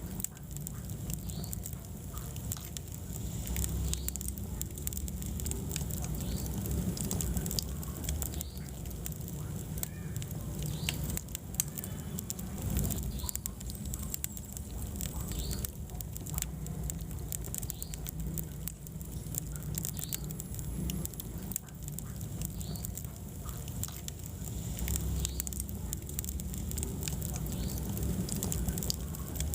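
Wood fire burning in a fireplace: dense, irregular crackling and popping over a steady low rumble of flames.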